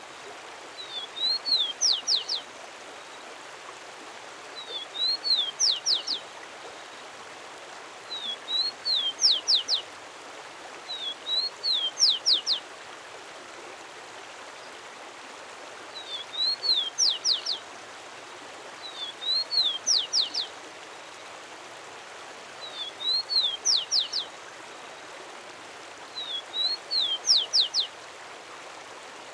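A songbird repeating the same short phrase eight times, every three to four seconds. Each phrase is a quick up-and-down note followed by three fast, steeply falling whistles, over a steady background hiss.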